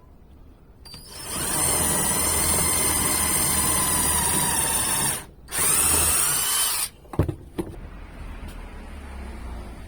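Power drill running in two bursts of a few seconds each with a short stop between, its pitch bending as the second run ends; a couple of sharp knocks follow.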